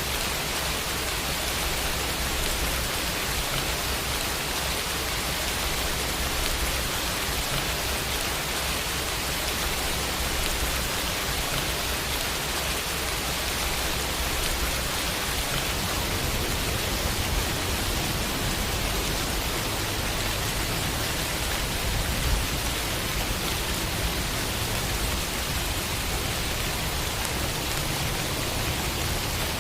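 Steady rain falling on a window, a dense even hiss of many drops with no distinct single hits.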